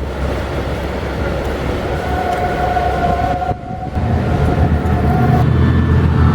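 Train running on the line: a steady low rumble, with a thin steady high tone over the middle of it. The rumble grows heavier about four seconds in.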